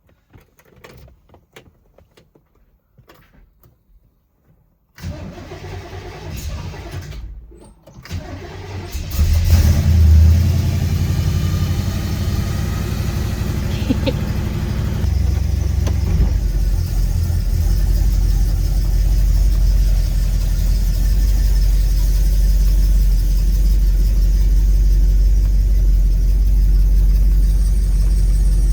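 A car engine starts about nine seconds in, loudest as it catches, then runs steadily with a low rumble at idle.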